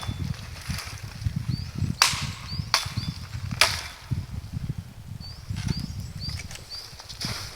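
Three sharp knocks less than a second apart, over a constant low rumbling noise and faint short high chirps.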